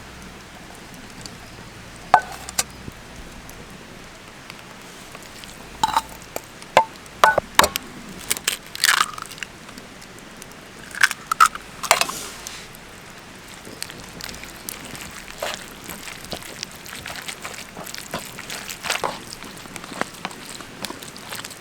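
Food-preparation handling sounds: irregular clicks, light knocks and short clinks of utensils and bowls, with crunching and squishing between them.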